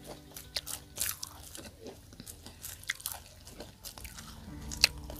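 Close-miked chewing of crispy deep-fried tahu walik (stuffed tofu puffs): irregular crunches, with one sharp, louder crunch near the end.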